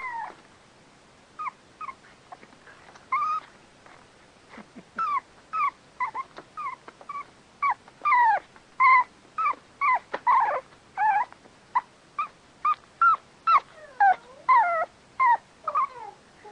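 A puppy whimpering in a string of short, high whines that mostly fall in pitch. The whines come faster and louder about halfway through.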